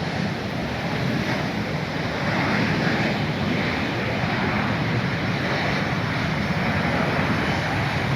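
Jet airliner landing on a nearby runway: a steady rushing roar that swells a little after about two seconds, mixed with wind on the microphone.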